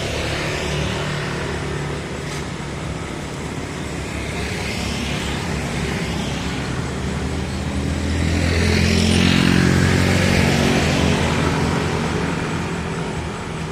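Engine of a passing vehicle running as it draws near, loudest about nine seconds in, then fading as it moves away.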